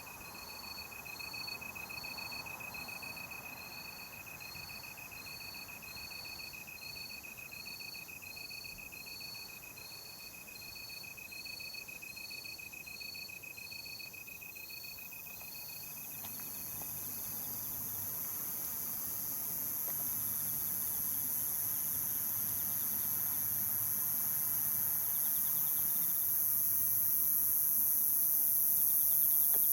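Night insects calling: a regular cricket-like chirp about once or twice a second over a steady high trill, which fade out past the middle. A very high, steady insect buzz swells and grows louder toward the end.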